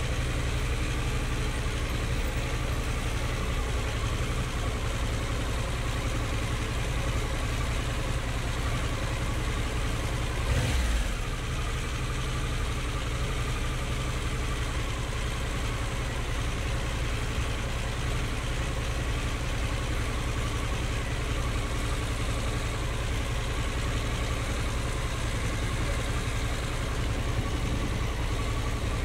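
Harley-Davidson Pan America Special's 1250 cc V-twin running steadily at low revs with a low rumble. There is one brief louder burst about ten to eleven seconds in.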